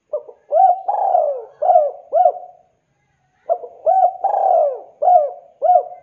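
Spotted dove (tekukur) cooing: two matching call phrases about three and a half seconds apart. Each phrase is a run of short arching coos around one longer coo that falls in pitch.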